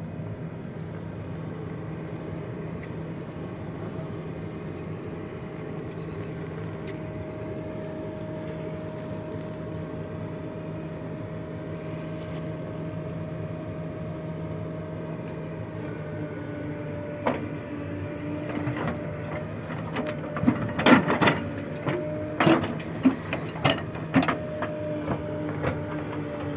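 JCB 3DX backhoe loader's diesel engine running steadily; in the latter part the engine note shifts and a string of sharp knocks and clanks comes through, heaviest near the end.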